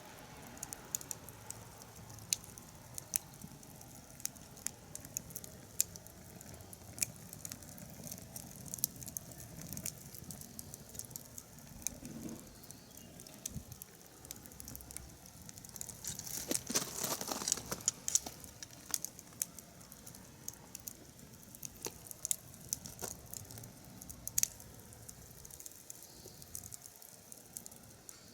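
Wood fire crackling, with frequent sharp pops at irregular intervals and a louder stretch of hissing crackle a little past halfway.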